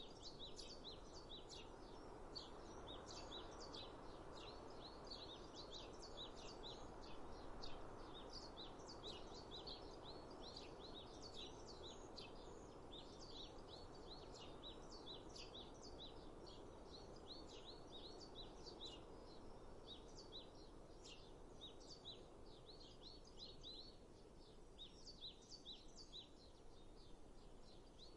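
Faint chorus of small birds chirping, many short high calls overlapping without a break, over a steady rushing background noise.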